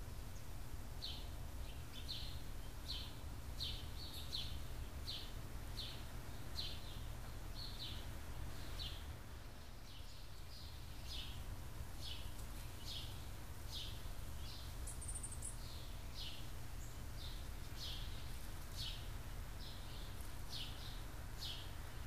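A small songbird chirping repeatedly, short sharp chirps at a steady pace of about one to two a second, with a brief pause near the middle, over a steady low background rumble.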